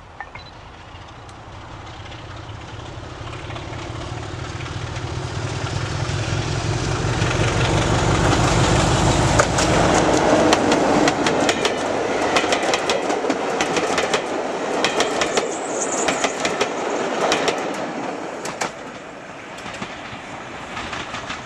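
Diesel locomotive hauling a train of coaches: its engine rumble grows louder as it approaches and passes close by about nine to ten seconds in. Then the coaches roll past with a run of clickety-clack from wheels crossing rail joints, fading near the end.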